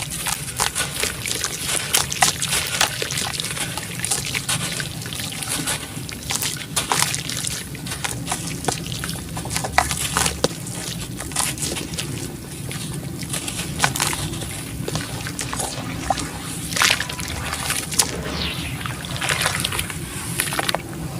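Black sand-cement chunks crumbling as they are dipped in water: a wet sloshing with a dense stream of small crackles and clicks.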